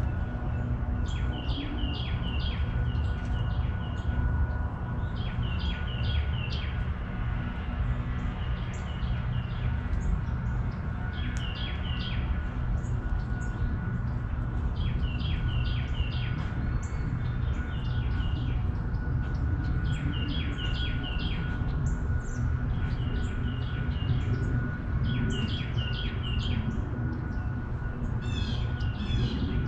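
Birds singing in short, repeated chirping phrases every few seconds over a steady low background rumble.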